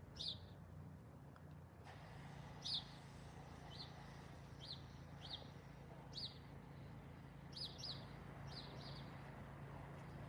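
Faint, short, high bird chirps, each sweeping quickly downward, about ten scattered irregularly, some in quick pairs, over a faint steady low hum.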